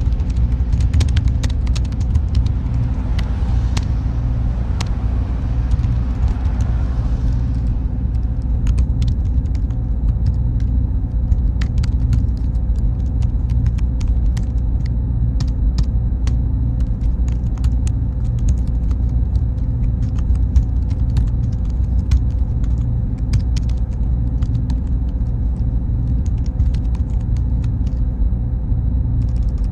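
Steady low rumble of server-room machinery, cooling fans and air handling, with a faint steady hum, many small scattered clicks and a thin high tone that comes in about eight seconds in.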